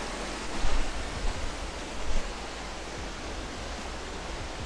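Steady rush of falling water from a mountainside waterfall, with a few brief low thumps, about a second in and again near two seconds.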